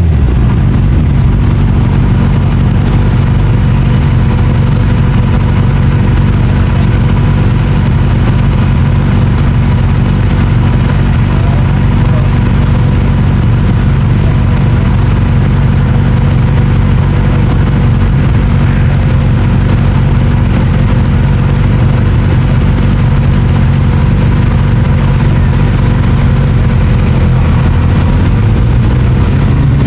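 A car engine idling steadily at close range, its pitch holding level.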